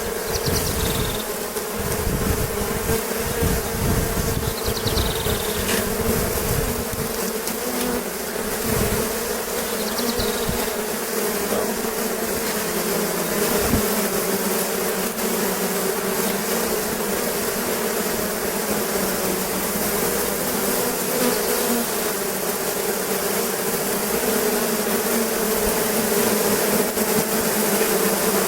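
Honeybees of a strong, opened colony buzzing in a steady, dense hum. Dull low knocks sound through the first ten seconds or so.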